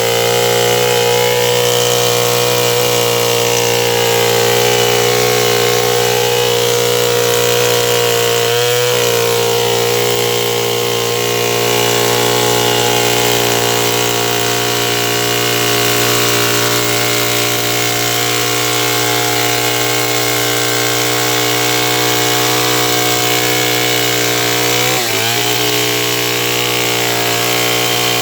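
Stihl 070 two-stroke chainsaw running steadily at high revs while milling a sengon log. The engine note dips briefly twice, about nine seconds in and again near the end.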